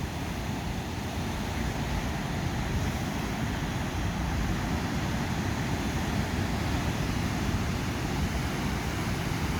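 Ocean surf breaking on the beach, a steady rushing noise, with wind rumbling on the microphone.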